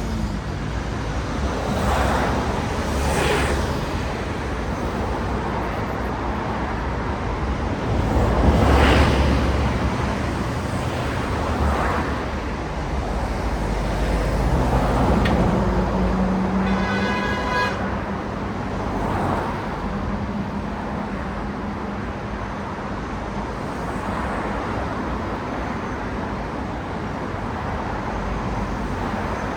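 Steady city road traffic, with cars passing one after another, each rising and falling in turn; the loudest passes about nine seconds in. Just past halfway a brief high-pitched tone sounds over it, and a low engine hum lingers for several seconds.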